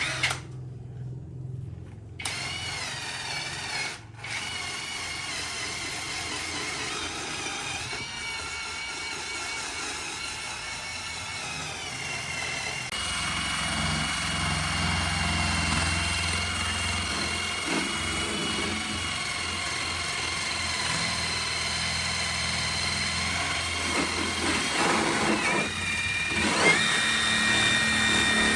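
An electric power tool running steadily with a high whine that wavers slightly in pitch, starting abruptly about two seconds in and stepping louder about halfway through.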